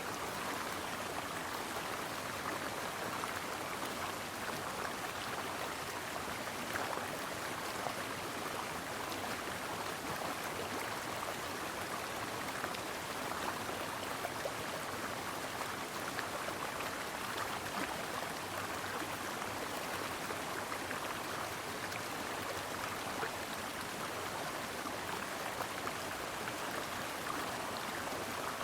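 Stream water flowing steadily over rocks, an even rushing with faint small splashes throughout.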